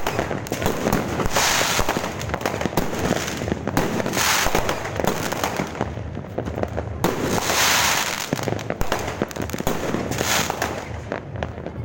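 Fireworks going off in a dense, continuous barrage of sharp bangs and crackles, with a longer hissing crackle about every three seconds.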